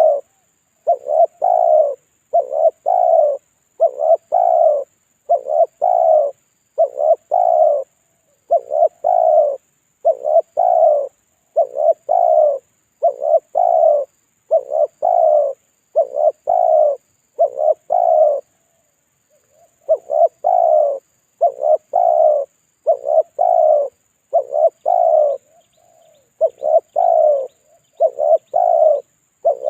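Spotted dove (tekukur) cooing over and over, a lure call used to draw in wild spotted doves. Each coo is a quick group of two or three notes, about one a second, with a short break about two-thirds of the way in.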